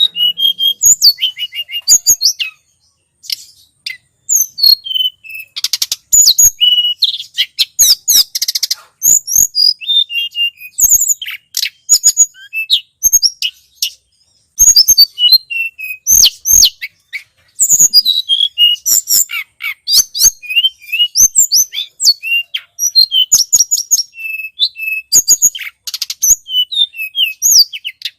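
Tledekan gunung songbird singing in a continuous, high-pitched stream of quick chirps, trills and sharp whistled notes, with a few short pauses: a bird-trapping lure call.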